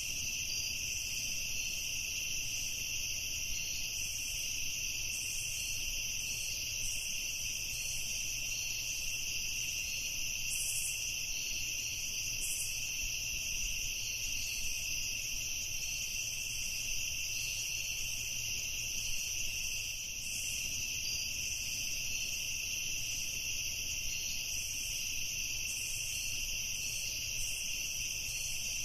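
Evening chorus of crickets: a steady, unbroken high-pitched trill.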